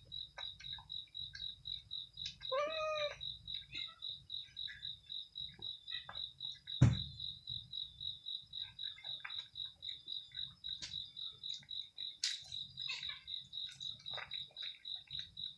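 A high chirp pulsing steadily about four times a second, like a cricket, under scattered small clicks of a cat eating. A cat gives one short meow about two and a half seconds in, and a single sharp knock sounds near seven seconds.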